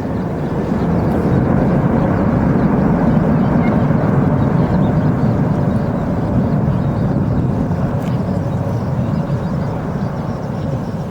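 Jet airliner passing low overhead as it comes in to land: a loud engine roar that swells over the first couple of seconds, holds, then slowly fades.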